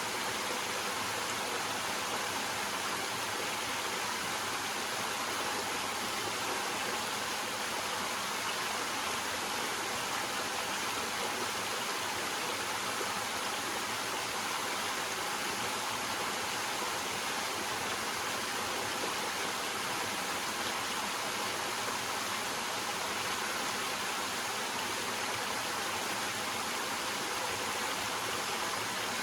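Small waterfall: water flowing steadily over rocks, an even rushing hiss with no breaks.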